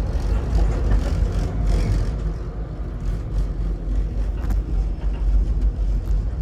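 VIA Rail passenger train running at speed, a steady low rumble with faint clicks and rattles on top.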